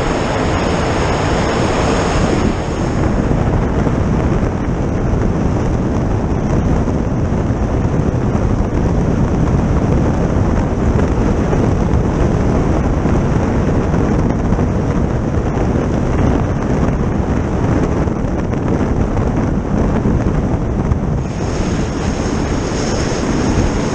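Heavy wind rushing over the microphone of a vehicle travelling at speed across ice, with its engine running under the noise. A high steady whine is heard for the first couple of seconds and again from near the end.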